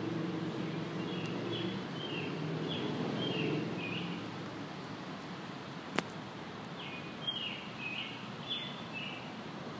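Small birds chirping: two runs of short, quick, falling chirps, one early and one near the end, over a low steady hum that fades a few seconds in. A single sharp click comes about six seconds in.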